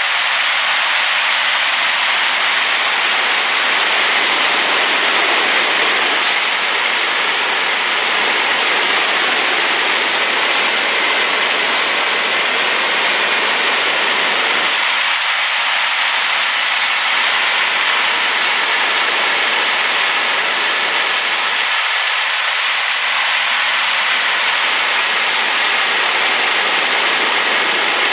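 Waterfall swollen with rain water, its water crashing down in a steady, loud rush.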